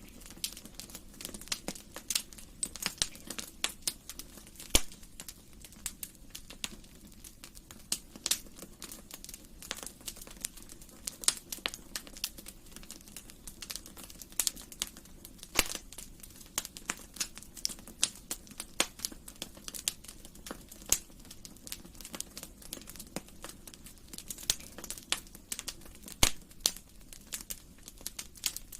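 Fire in a fireplace crackling, with a steady stream of irregular snaps and pops over a low, even rush of flame. A few pops stand out louder than the rest.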